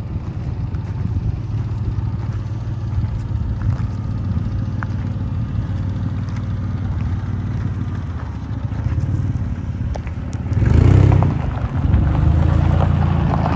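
A 2001 Ford Ranger's 4.0-litre SOHC V6 engine idling steadily. Near the end it is revved once briefly and then settles into a slightly faster, louder idle.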